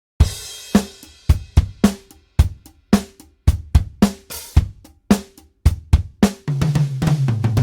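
Sampled acoustic drum kit from Toontrack EZdrummer 3 playing a groove of kick, snare and cymbal strokes, starting with a cymbal crash. Near the end it breaks into a fast fill of low hits falling in pitch.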